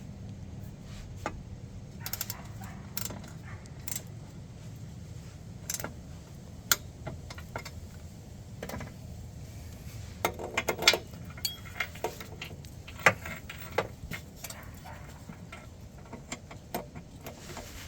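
Metal tools and parts clinking and clattering as they are handled and moved about, scattered clicks with a run of sharper clanks about ten seconds in, over a steady low hum.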